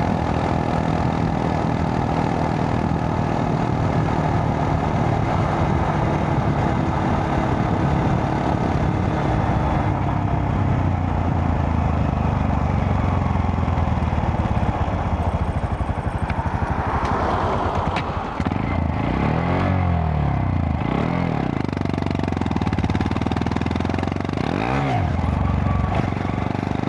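Honda Monkey 125's single-cylinder four-stroke engine running steadily under way, then dropping in revs as the bike slows, with a few brief rises and falls in revs near the end.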